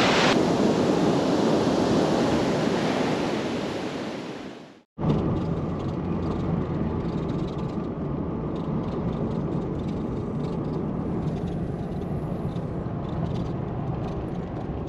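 Ocean surf breaking and washing on a beach, fading out over about five seconds. After a brief silence, the steady road and engine noise of a car's cabin while driving takes over.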